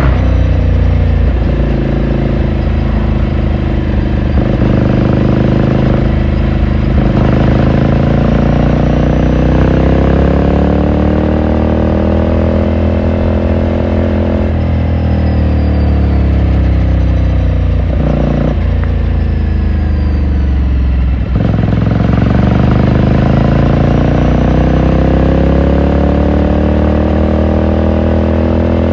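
2018 Ducati Scrambler Sixty2's 399 cc air-cooled L-twin engine and exhaust under way. The pitch climbs as the bike accelerates. There is a gear change about halfway through, and after a dip about three-quarters of the way in, the pitch climbs again.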